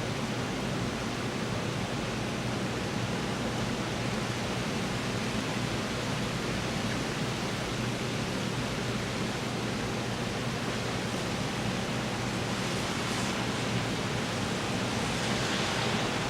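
Steady rain falling, an even hiss with no breaks, swelling a little in the upper range near the end.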